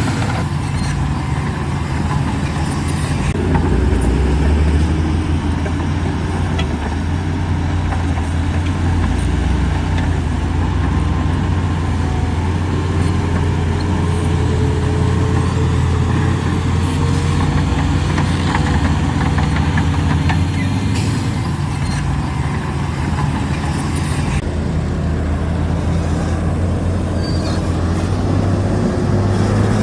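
Heavy diesel engine of earthmoving machinery running steadily under work, a deep continuous drone with a faint whine that slowly rises and falls. The sound shifts abruptly a few times.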